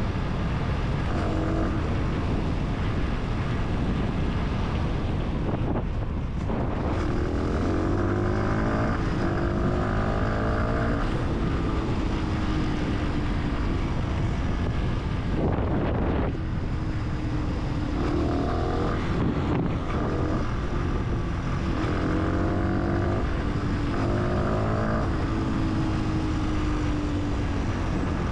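Fantic 125 supermoto engine accelerating and shifting: the pitch climbs in repeated steps, each broken off by a gear change or a roll-off of the throttle. A steady rush of wind runs underneath.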